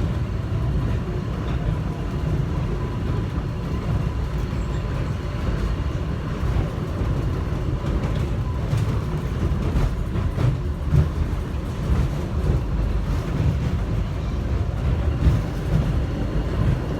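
Airport people-mover train running, heard from inside the car: a steady heavy low rumble with a faint steady whine and scattered light clicks and rattles.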